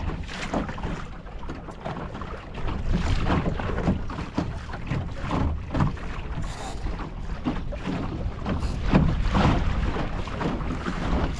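Wind buffeting the microphone in an uneven low rumble, with water irregularly slapping and splashing against the hull of a small wooden Mirror dinghy under sail.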